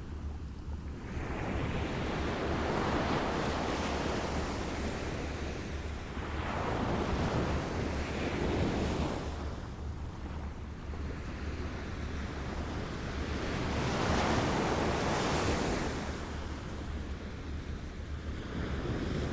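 Small waves lapping on a shore, swelling and fading in slow surges about every five to six seconds, with a steady low rumble underneath.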